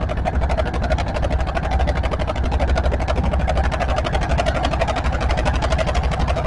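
Tractor engine running steadily at an even speed, with a fast, regular pulse.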